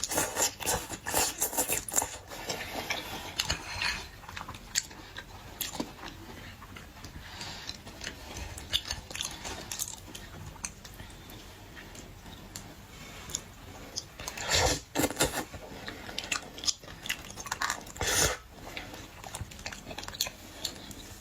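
A person chewing and biting boiled shellfish, with many irregular sharp clicks and cracks. There are louder bursts about fifteen and eighteen seconds in.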